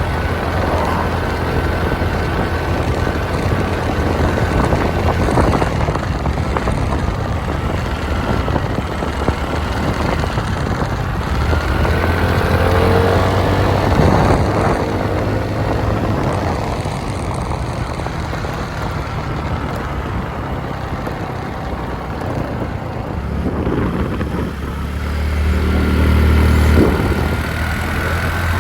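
Motorbike running along a road, engine hum with road and wind noise; the hum swells twice, about halfway through and near the end.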